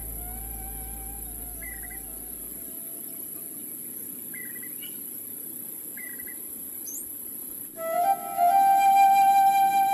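Flute music: a soft wavering flute line, then a loud held flute note entering sharply near the end. Short bird chirps come every second or two throughout.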